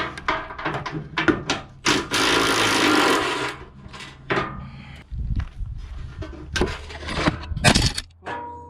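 Hand tools knocking and clanking against metal while bumper fasteners are worked loose on a car, with a dense rattling burst about two seconds in that lasts over a second.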